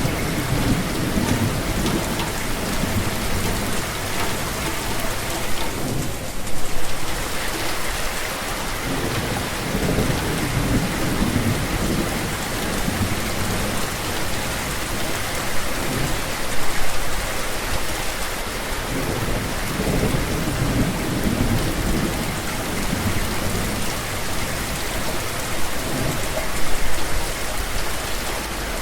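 Steady, heavy rainfall hissing on surfaces, with low thunder rumbling that swells and fades several times.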